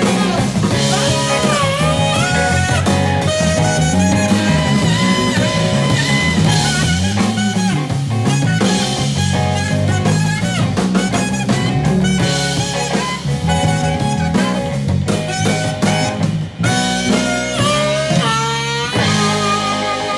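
Live blues band playing an instrumental passage, with guitar and drums over a moving bass line, and a quick run of rising notes near the end.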